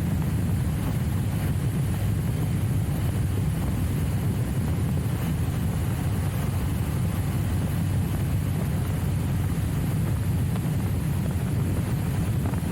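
Trial motorcycle engine running steadily with an even low rumble that holds at a constant level, with no revving up or down.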